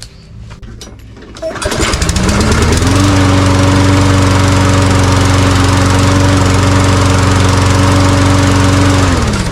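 Walk-behind lawn mower engine pull-started; it catches about a second and a half in, revs up to a steady run, then dies away near the end as it shuts off. The shutdown is the engine-kill cable on the handle bail doing its job when the handle is let go.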